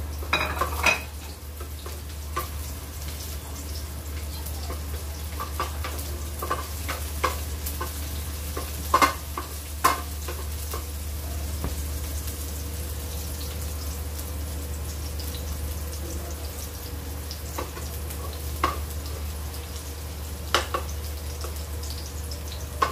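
Chopped onion, garlic and ginger sizzling in hot oil in a thin metal wok. A wooden spatula scrapes and knocks against the pan now and then, most busily in the first second and twice around the middle, over a steady low hum.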